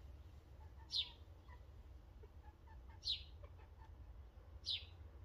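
A bird gives three short, high chirps, each falling in pitch, about two seconds apart, over a faint low hum.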